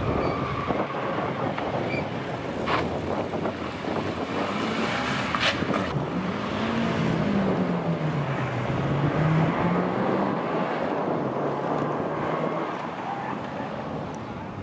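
Small Škoda hatchback's engine revving up and down as it drives a slalom course, rising twice to higher revs in the middle and easing off, under heavy wind buffeting on the microphone.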